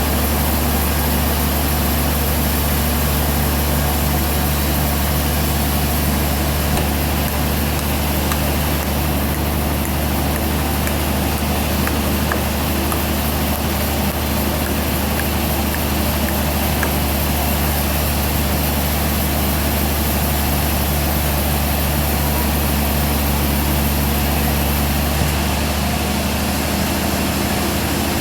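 Band sawmill running steadily, a constant machine drone with a strong low hum and hiss.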